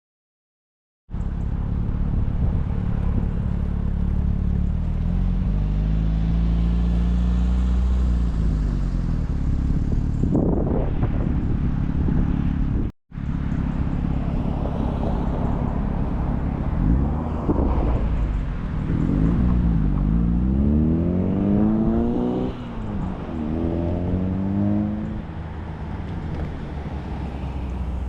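Kit car engines running at low revs as cars drive slowly past, with an abrupt break partway. Near the end, one engine's revs climb, drop back and climb again as the car accelerates away.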